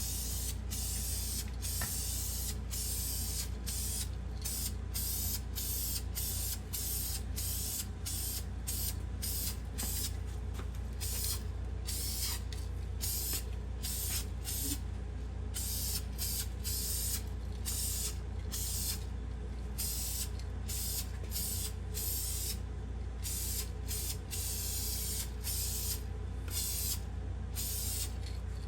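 Paint being sprayed in a long, steady hiss, with a low hum underneath.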